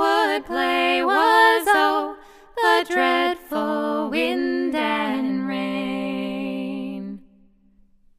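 Two women singing a cappella in close harmony, the closing line of a traditional folk ballad, ending on a long held chord that stops about seven seconds in.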